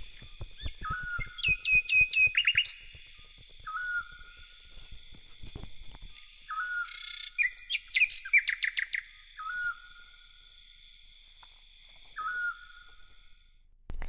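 Birds singing: a short note repeated every couple of seconds and two bursts of quick trilling notes, cutting off suddenly near the end. A run of clicks sounds in the first few seconds.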